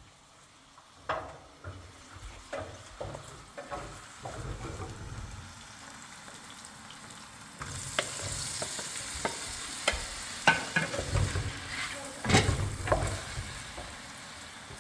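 A run of irregular knocks and scrapes, with a steady hiss that comes in about eight seconds in.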